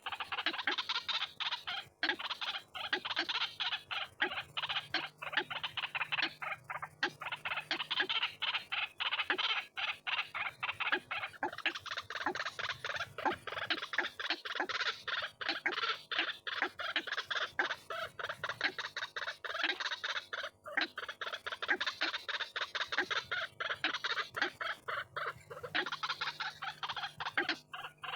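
White-breasted waterhen calling: a dense, unbroken run of rapid, harsh repeated notes, several a second, with only brief dips.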